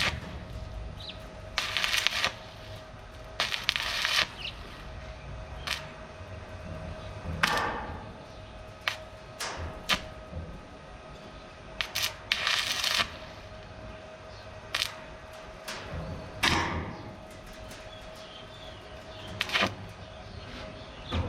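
Irregular knocks and clicks with several short scraping bursts over a faint steady hum: workshop sounds of work on a sheet-steel boat.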